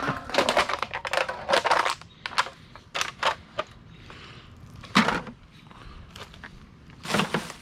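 Clattering and sharp knocks as litter, an empty beer can among it, is grabbed with a trash picker and dropped into a bucket: a quick run of rattles at first, then single knocks spaced a second or two apart.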